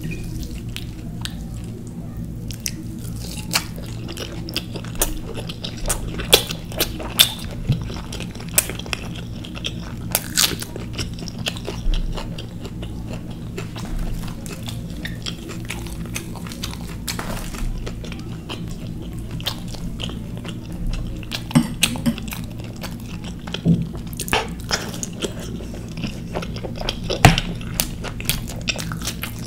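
Close-miked mouth sounds of a person eating naan with kofta curry: chewing and biting with many scattered sharp clicks and crunches, over a steady low hum.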